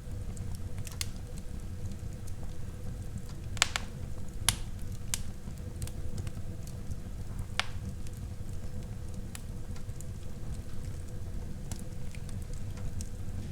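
Wood fire burning in a fireplace: a steady low rumble of flames with scattered crackles and pops, two sharper pops a little under a second apart near the middle.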